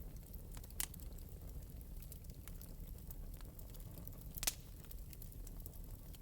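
Fire in an open metal fireplace crackling, with a steady low rumble and scattered light crackles. Two louder pops stand out, about a second in and about two-thirds of the way through, the second the loudest.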